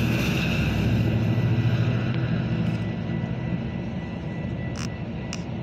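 Metra commuter train's low rumble fading as it moves away from the grade crossing. Two sharp clicks come near the end.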